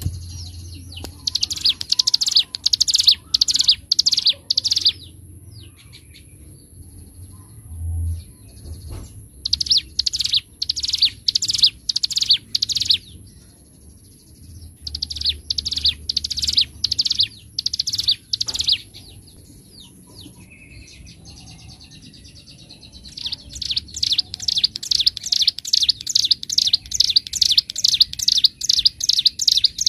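Ciblek gunung (hill prinia) singing loud bouts of rapidly repeated sharp notes, about three notes a second. There are four bouts with pauses between them, and the last, starting near the end, is the longest.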